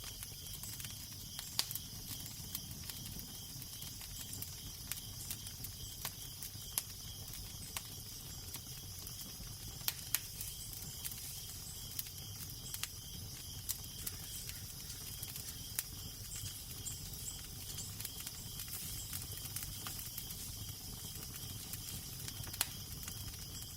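Crackling fire with irregular sharp pops, over a steady low wind rumble and hiss.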